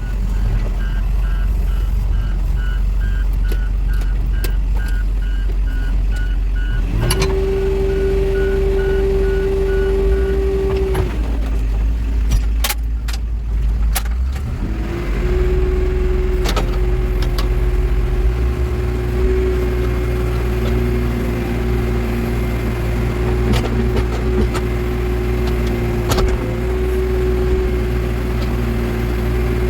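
Backhoe loader's diesel engine running steadily, with a reversing alarm beeping for the first third. A steady whine comes in about a quarter of the way in, cuts out briefly, then holds through the rest, with scattered knocks from the machine working.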